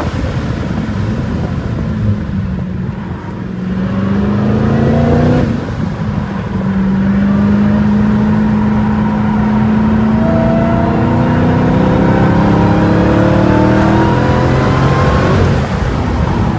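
Dodge Challenger's engine under hard acceleration on a road course, heard from inside the cabin. The revs sag and quieten briefly about three seconds in, pick up again after a break near the middle, then climb steadily in a long pull toward the end.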